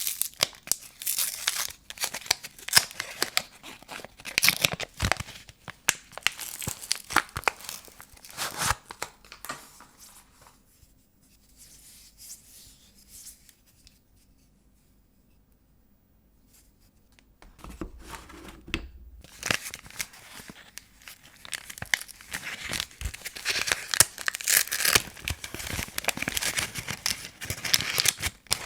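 Paper wrappers of vintage soap bars being torn open and crinkled, in dense crackling rustles. It goes nearly quiet for several seconds in the middle, then the crinkling resumes and grows busier.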